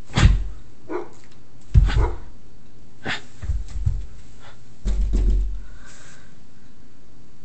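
Goldendoodle barking in a few short, separate barks spread over several seconds.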